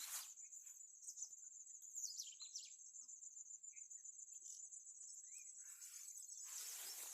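Insects chirring: a steady, high-pitched, finely pulsing trill, with a few short chirps about two seconds in.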